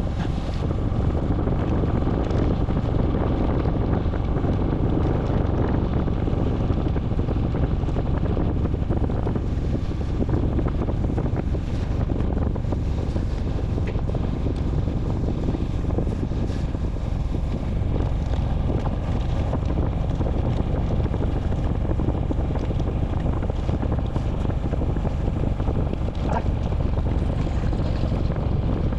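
Steady low wind rumble buffeting the microphone of a camera moving along with a bicycle ride, with a few faint ticks.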